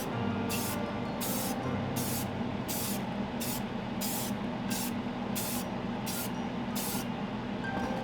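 Paint being sprayed in about ten short hissing bursts, evenly spaced about two-thirds of a second apart, stopping about seven seconds in.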